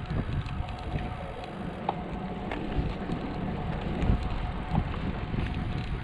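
Wind buffeting the microphone during a bicycle ride: a gusty low rush with a few scattered light clicks.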